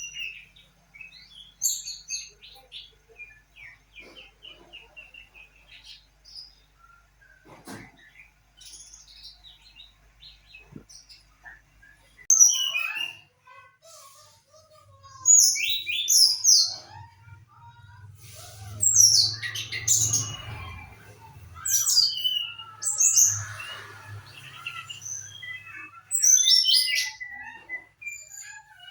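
Brown-chested jungle flycatcher chirping and singing. Soft scattered chirps at first, then from about twelve seconds in, louder, quick high phrases that repeat every second or two.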